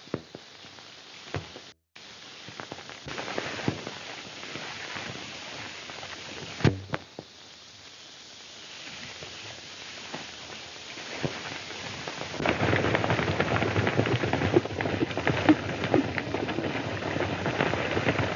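Scattered single gunshots, then from about twelve seconds in a dense, irregular crackle of many guns firing at once, heard through the hiss of an old film soundtrack.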